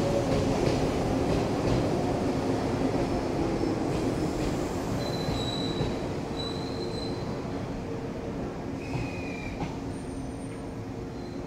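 Resort 21 'Black Ship' electric train rolling into the platform and slowing: steady rolling noise with a slightly falling hum, growing quieter as it slows. Brief high squeals come from the wheels or brakes about halfway through and again later.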